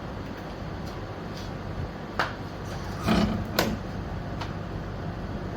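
Tools and parts being handled during scooter disassembly: a click, then a short scraping rattle and a sharp clack, over a steady low hum.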